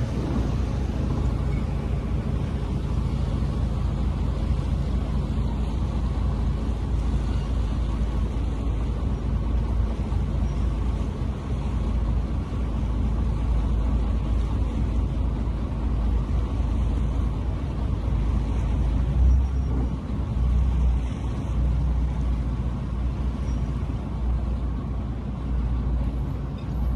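Fast fishing boat under way at speed: a steady engine drone under a continuous rush of water and wind, with a few deeper low rumbles a little after two-thirds of the way through.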